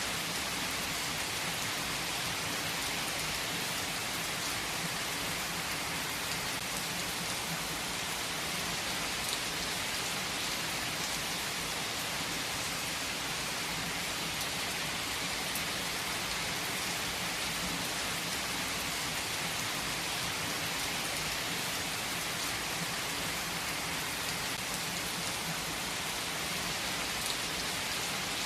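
Heavy rain falling steadily, a dense even hiss with scattered drop strikes on surfaces.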